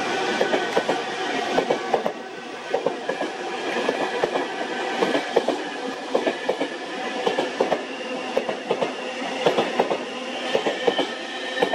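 Loaded ballast wagons of a diesel-hauled freight train rolling past, their wheels clacking over the rail joints in quick, uneven clusters over a steady rumble, with a thin high ringing note.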